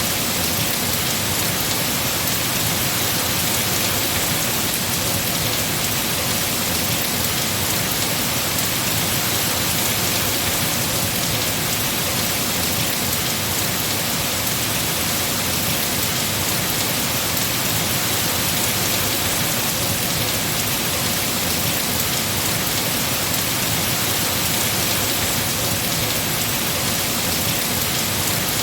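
Heavy rain falling steadily on trees and foliage, a dense, even hiss with no breaks.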